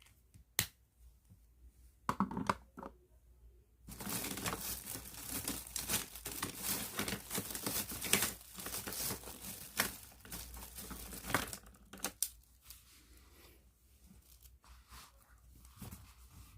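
Close-miked sounds of a pen and its plastic bag being handled. A sharp click comes about half a second in, then a few short rustles. Then follow about seven seconds of dense, fast scratching and crinkling, which trails off into scattered rustles.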